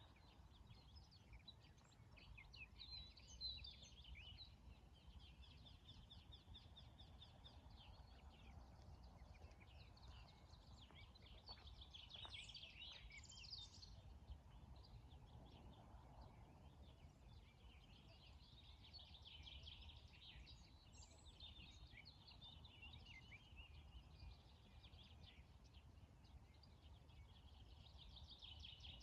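Faint morning birdsong: several birds chirping and trilling on and off, over a low steady rumble.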